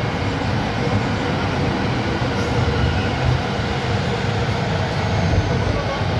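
Electric commuter train running along an elevated railway viaduct, a steady rumble of wheels on the rails.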